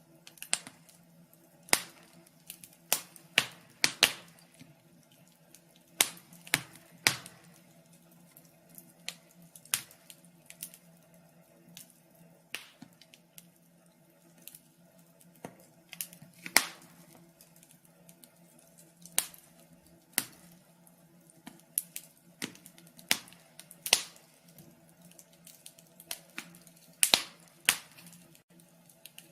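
Wood fire crackling in a fireplace, with irregular sharp pops and snaps, some much louder than others.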